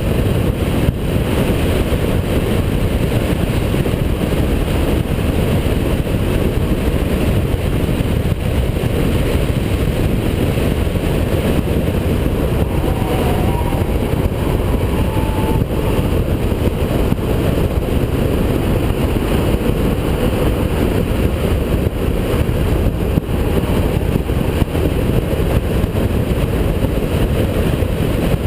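Holden VP Commodore's V6 engine running hard at racing speed on a circuit. It makes a loud, steady din of engine, road and wind noise, with no single pitch standing out and no let-up.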